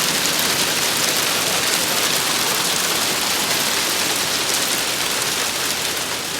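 Hail mixed with heavy rain falling, a dense, steady patter of countless small impacts.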